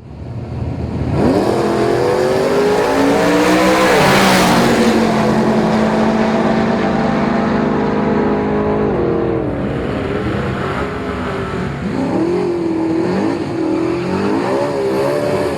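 A drag-racing car's engine revving: it climbs about a second in, holds high revs for several seconds, then drops and is blipped up and down repeatedly near the end.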